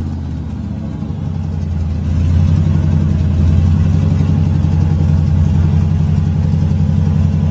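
Supercharged V8 of a Jeep Grand Cherokee SRT8 running at steady revs during a burnout, with the rear tyre spinning and smoking. It gets louder about two seconds in and then holds.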